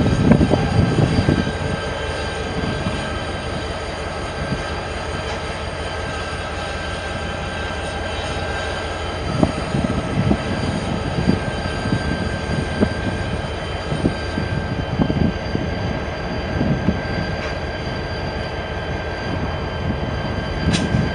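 BNSF train cars rolling past on the track: a steady rumble with irregular thumps and clacks from the wheels, and a steady high ringing tone held above it.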